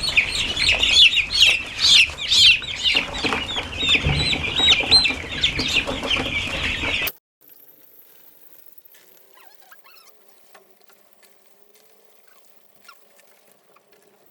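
A dense chorus of many young broiler chicks peeping, which cuts off abruptly about halfway through, leaving only faint quiet sound.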